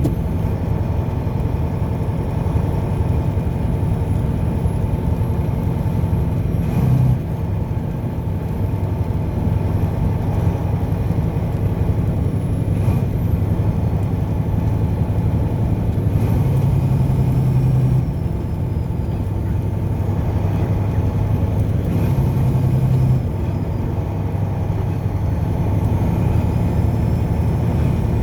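Steady engine and road noise of a car being driven, a constant low hum with slight dips in loudness about seven seconds in and again near the end.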